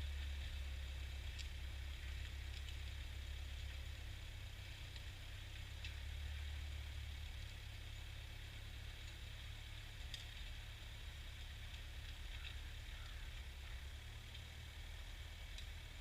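Ford farm tractor's engine running while ploughing, a faint low rumble that rises and falls a little, with a few light clicks.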